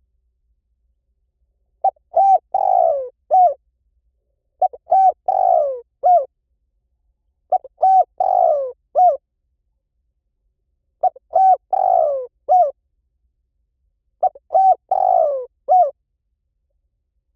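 Spotted dove cooing call, used as a lure to draw wild doves in. It repeats five times, about every three seconds: each phrase is a short note, a longer falling coo and a closing note, with clean silence between phrases.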